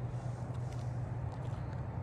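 Steady low rumble of a diesel freight train running.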